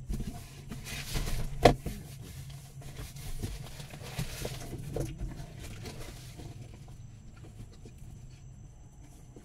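Handling noises: two bursts of rustling, a sharp knock about two seconds in and a few lighter knocks, over a steady low hum.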